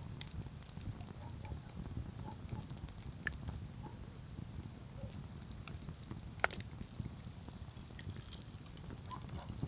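Campfire crackling: scattered pops and clicks of burning wood, with one louder snap about six and a half seconds in, over a low steady rumble.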